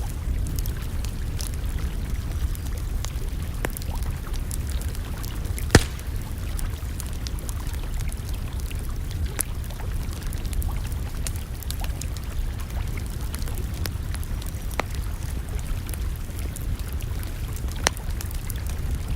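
Campfire crackling, with scattered sharp pops, the loudest about six seconds in, over a steady low rumble.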